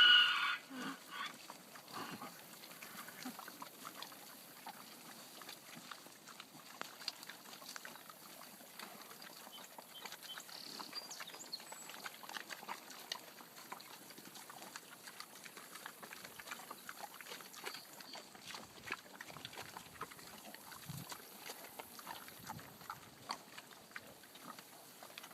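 Pigs and piglets grunting and squealing. A loud, high squeal comes right at the start, followed by many short, faint grunts and rustles.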